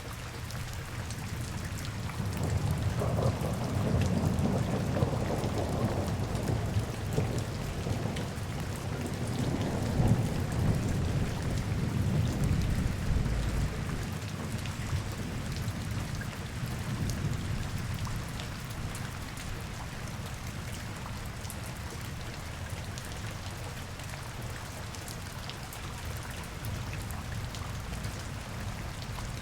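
Steady rain falling, with a long, deep rumble that swells about two seconds in and dies away around halfway through.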